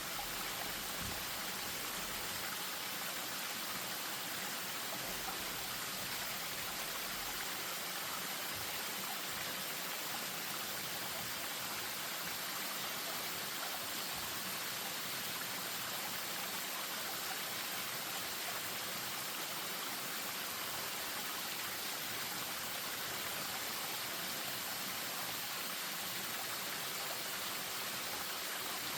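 Spring-fed stream running over a small waterfall: a steady, even rush and splash of water.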